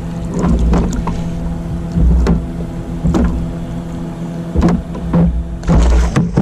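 A steady low engine drone with even overtones, overlaid by about eight irregular knocks and thumps as gear is handled in a kayak during a fish fight.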